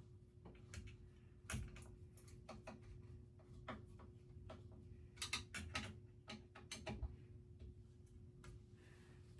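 Irregular light clicks and taps of small metal hardware and a screwdriver being handled while ceiling fan blades are screwed on, over a faint steady hum.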